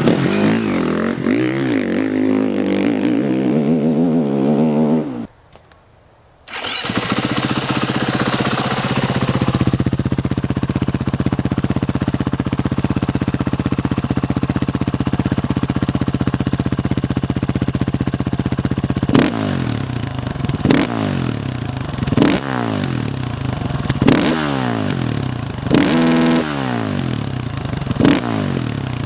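Husqvarna enduro dirt bike on its stock exhaust. It is first revved up and down, then after a short gap the engine starts and idles steadily. From about two-thirds of the way in come six quick throttle blips, each rev rising and falling back to idle.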